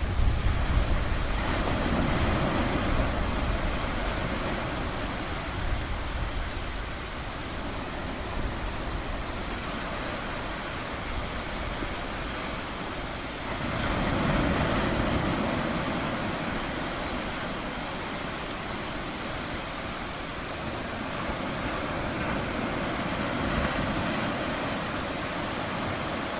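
Ocean surf: waves washing in as a steady rush, with one swell about a second in and a stronger one breaking about halfway through, then easing off.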